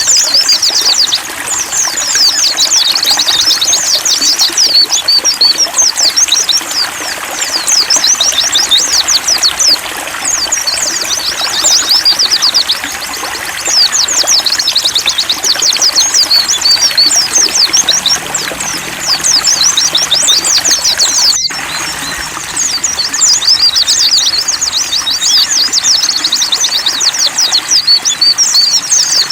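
Pleci (white-eye) birdsong: long, fast, high-pitched twittering phrases lasting a few seconds each, with short breaks, over the steady trickle of running water. The sound cuts out for a moment about 21 seconds in.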